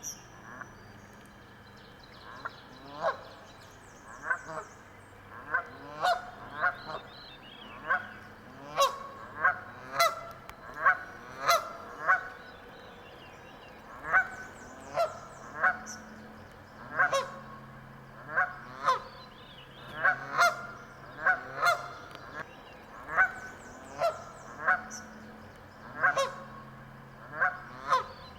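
Canada geese honking, a long series of short, sharp honks that begins a few seconds in and comes irregularly, sometimes in quick pairs.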